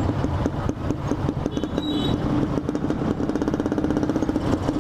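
Motorcycle engine running at low revs with a steady, even pulsing, heard from the rider's seat. A brief high beep sounds about a second and a half in.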